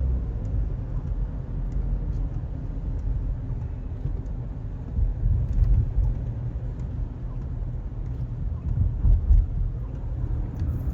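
Low, steady road rumble heard from inside a moving car, with louder surges of rumble about five seconds in and again near nine seconds.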